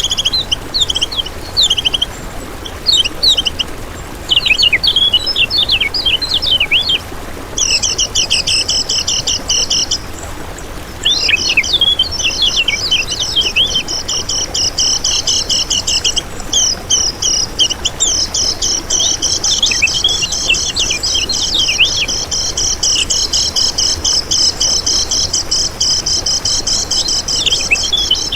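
Common iora (kecial kuning) singing hard and without pause: quick sharp chirps at first, then long fast buzzy trills that run almost unbroken from about twelve seconds in.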